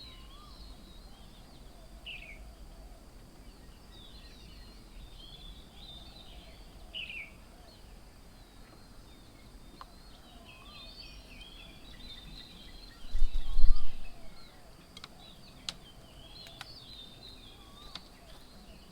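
Several birds chirping and calling, with many short overlapping calls and a few clear falling notes. About 13 seconds in comes a brief, loud, deep rumble.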